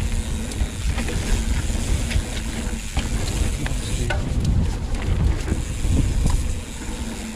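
Wind buffeting the microphone of a camera riding a mountain bike down a dirt trail. Tyres hiss on dry, loose dirt, and the bike rattles with scattered clicks and knocks.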